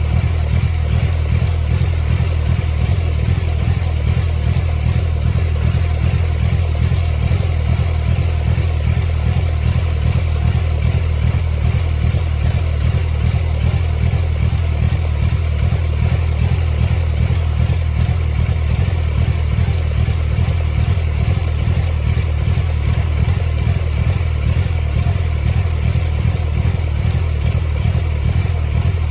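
1999 Mercedes-Benz C230 Kompressor's supercharged 2.3-litre four-cylinder engine idling steadily, in an even low pulsing run, with its mass airflow sensor and idle air control unplugged.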